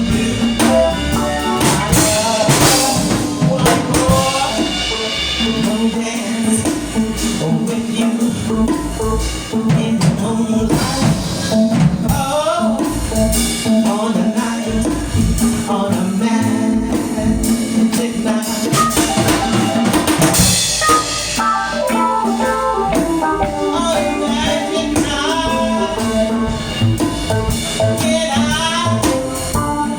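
Live band playing a song with drum kit and a singer's vocal.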